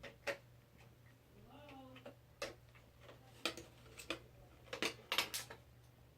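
Scattered sharp clicks and light metallic taps of a screwdriver and small screws against a PC case and motherboard, irregular and about ten in all, bunched closer together near the end. A brief low murmur comes about a second and a half in.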